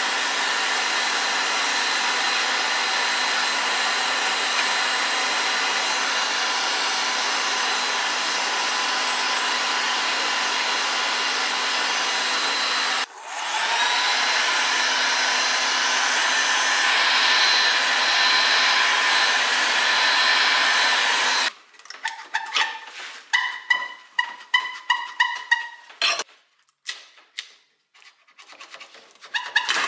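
A power tool's motor runs steadily, stops for a moment and spins back up, then shuts off after about 21 seconds. A series of short, irregular hand-scraping strokes on wood follows, rasp- or file-like.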